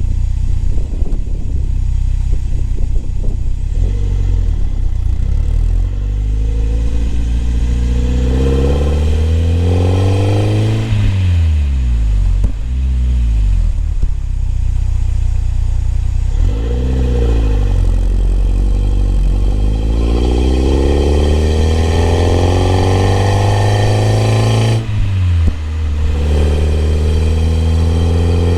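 BMW E30 M3's S14 four-cylinder engine running hard and accelerating. Its pitch climbs and falls several times, drops sharply about 25 seconds in, then climbs again.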